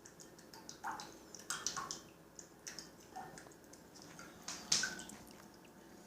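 An animal splashing water: a run of irregular small splashes and drips, with two louder splashes about a second in and near the end.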